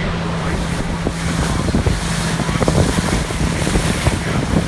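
Pontoon boat's motor running at a steady pitch while under way, with wind buffeting the microphone.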